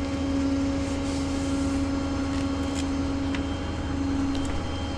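Vehicle engine running steadily with a constant hum and a low rumble, the hum dipping briefly near the end.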